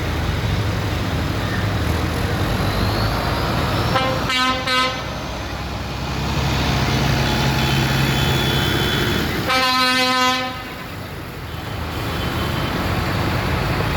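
Tractor engines running steadily, with a horn sounding two short blasts about six seconds apart.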